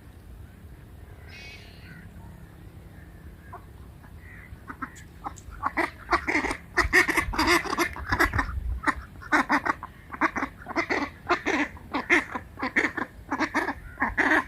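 Ducks quacking: a quick run of short, loud calls that starts about a third of the way in and keeps going.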